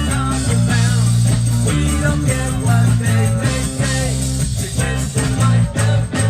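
Live ska-reggae band playing: a heavy bass line under electric guitar, with drum hits repeating in an even rhythm.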